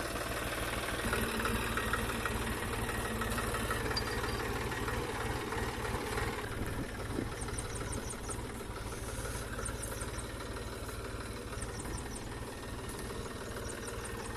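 12 hp diesel engine of an irrigation water pump set running steadily.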